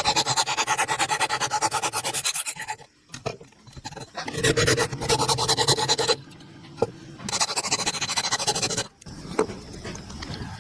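A woodworking tool cutting or rasping wood in three bursts of about two seconds each, each one a rapid, even run of rasping strokes.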